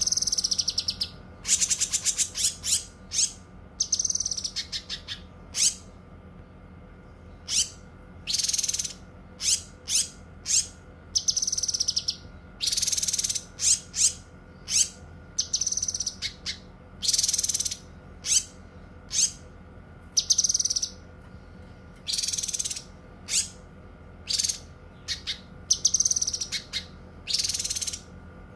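Cucak kinoi singing: a run of short, high-pitched whistled and trilled phrases, roughly one a second with brief pauses, over a faint steady hum.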